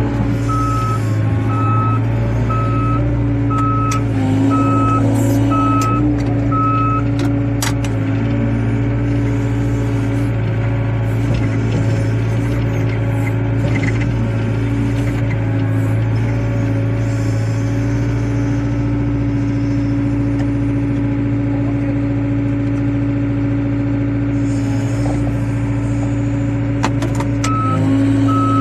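Excavator diesel engine running steadily, with its travel alarm beeping regularly for the first several seconds, then stopping, and starting again near the end.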